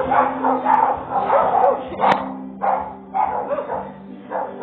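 A dog barking repeatedly in quick, short barks, with a sharp click about two seconds in.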